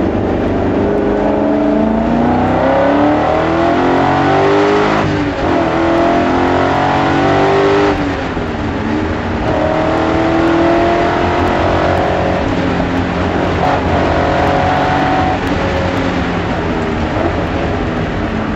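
BMW S62 5.0-litre V8 in an E30 race car, heard onboard, pulling hard through the gears with its pitch climbing. There is a gear change about five seconds in and a lift about eight seconds in. It pulls again and then winds down near the end.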